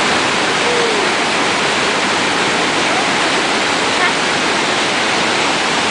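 Whitewater of a river rapid-waterfall rushing over rocks, a loud steady roar of falling water.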